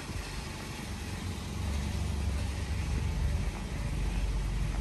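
Volvo 940 estate's engine idling steadily, a low even hum that grows a little louder toward the end.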